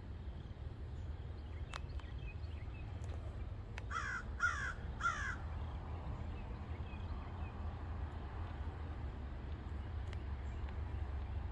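A bird gives three harsh calls in quick succession about four seconds in, over a steady low rumble.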